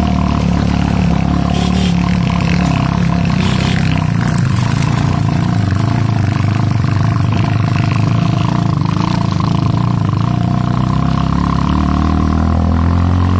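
Motorcycle engine running steadily with a constant low drone, as heard while riding.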